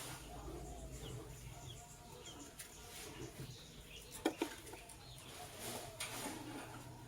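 Lovebirds chirping in scattered short calls, with two sharp clicks in quick succession a little past the middle, over a low steady hum.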